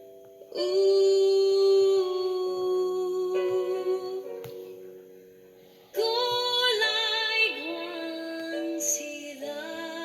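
A woman singing a slow Welsh-language song, holding long, steady notes; one phrase begins about half a second in and a second one about six seconds in.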